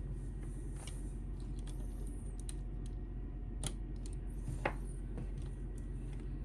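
A few light clicks and taps from a plastic action figure being handled, over a steady low background hum.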